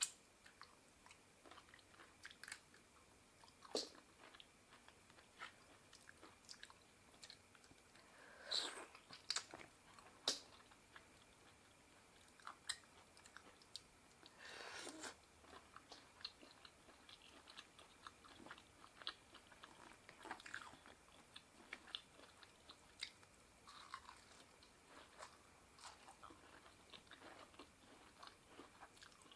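A person eating seafood papaya salad: faint chewing and crunching with many small scattered clicks, and a few louder, longer noises.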